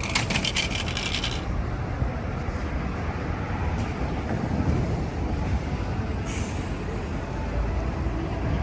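Busy city street traffic: a steady low rumble of vehicles, with a quick run of sharp ticks at the start and a short hiss a little after six seconds in.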